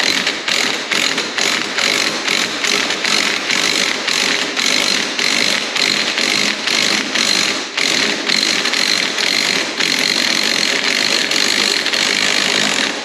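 A power tool running continuously with a regular clatter about three times a second, then cutting off at the end.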